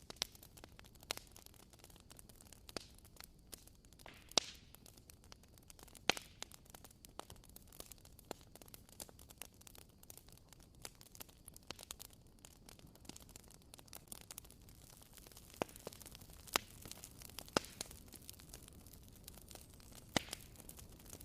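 Wood fire crackling: irregular sharp pops and snaps over a soft hiss, with a few louder pops scattered through.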